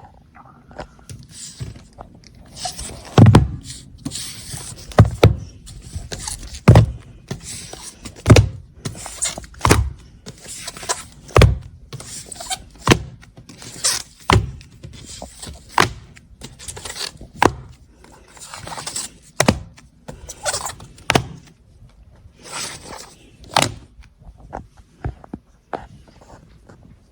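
A series of hollow thunks, about one every second and a half, with fainter knocks and scraping sounds between them.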